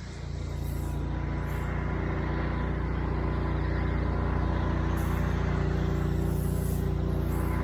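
Small gas engine of a spray rig running steadily, coming up to speed just after the start, over a steady hiss of bleach solution being sprayed as a post-treatment.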